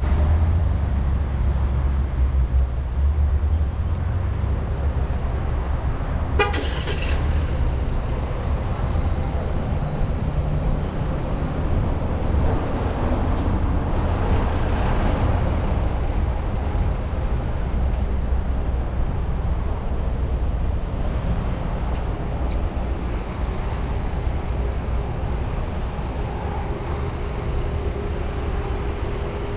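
Steady low rumble of a motor vehicle on the road, with a short horn toot about six and a half seconds in.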